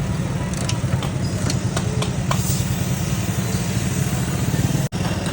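Royal Enfield Bullet motorcycle's single-cylinder engine running steadily at idle with a fast, low pulsing beat, a few faint clicks over it in the first couple of seconds. The sound cuts out for an instant near the end.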